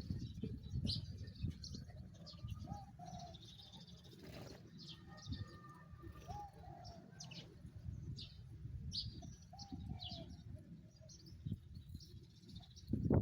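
Small birds chirping in short, scattered high notes, with a few lower arched calls in between, over a steady low rumble.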